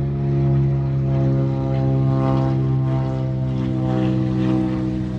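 A low-flying propeller aircraft passing overhead, its engine drone loud and steady.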